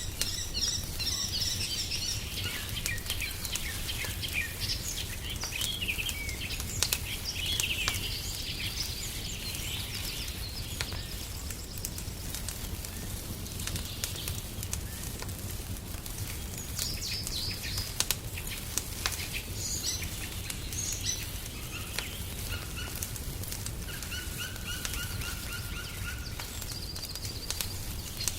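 Small songbirds chirping and singing in short bursts throughout, over the scattered sharp pops and crackles of a wood fire burning in a fireplace and a steady low rumble.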